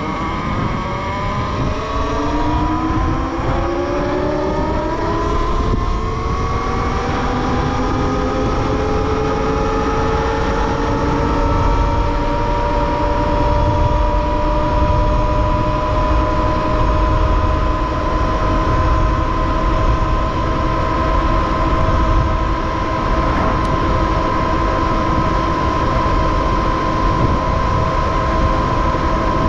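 Talaria electric motorbike's motor whine climbing in pitch as the bike accelerates for about ten seconds, then holding a steady high whine at speed, over a constant low rushing noise.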